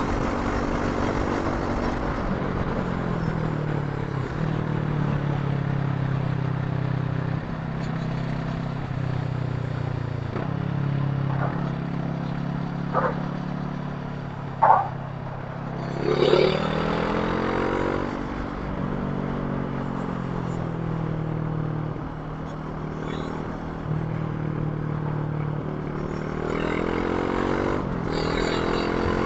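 Brixton Crossfire 500's parallel-twin engine under way, its pitch climbing, dropping back at each gear change and rising again, with a few short sharp sounds about halfway through.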